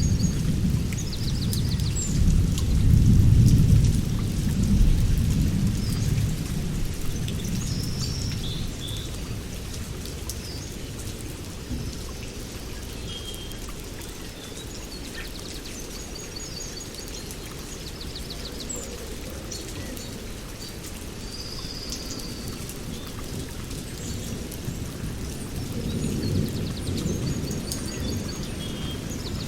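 Steady rain with a low rolling rumble of thunder over the first few seconds, fading out and returning near the end. Birds chirp now and then over the rain.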